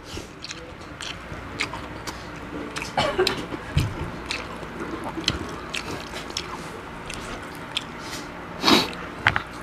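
Close-miked chewing and mouth sounds of a man eating crispy fried frog with rice, with many small wet clicks and smacks. A brief louder hiss about nine seconds in.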